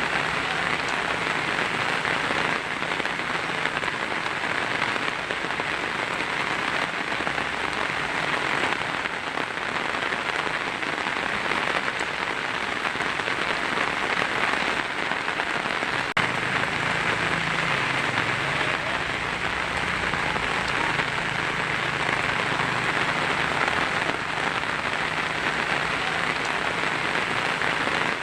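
Heavy rain drumming steadily on a tin roof. A low rumble comes in about halfway through.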